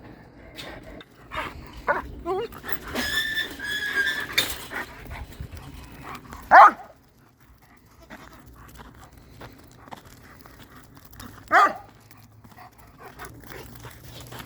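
Farm animals calling: two high, held notes about three to four seconds in, then a loud short call about six and a half seconds in and another about eleven and a half seconds in, with softer animal sounds between.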